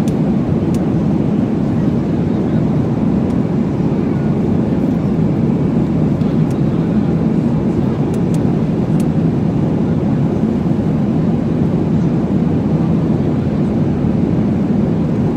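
Steady low rushing noise inside an airliner's passenger cabin in flight, from the engines and the air streaming past the fuselage, with a few faint clicks.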